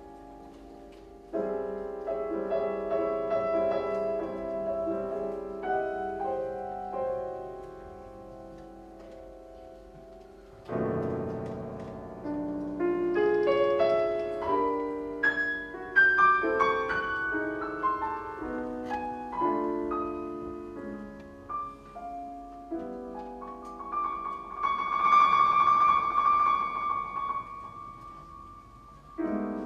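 Piano playing in a piano concerto: held chords, then a louder low entry about ten seconds in followed by a run of single notes, and a fast trill or tremolo on a high note near the end.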